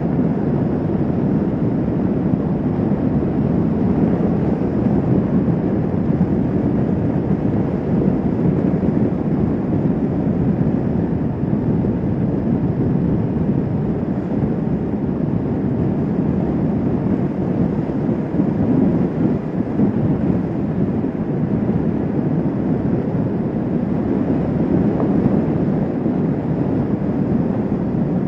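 Steady riding noise from a Kawasaki Vulcan S 650 motorcycle cruising at an even speed: engine drone mixed with wind rush, with no change in pace.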